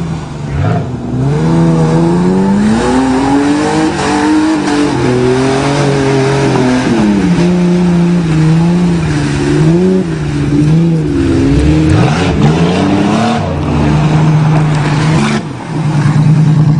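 A car engine being driven hard, revving up and down over and over, its pitch rising and falling repeatedly with a steadier stretch near the end.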